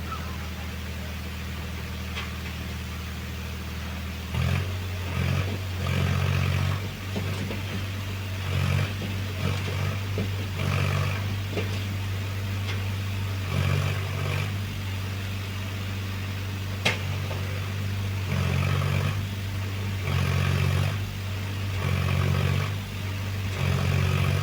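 Tractor diesel engine running steadily, then about four seconds in it picks up and is revved up and down again and again. A single sharp click comes partway through.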